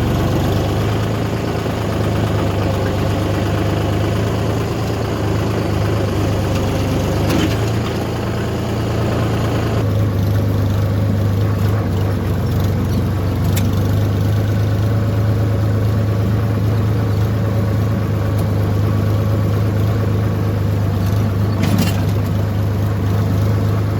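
Tractor engine running steadily with a low hum while the tractor is driven; the higher-pitched noise over it drops away about ten seconds in.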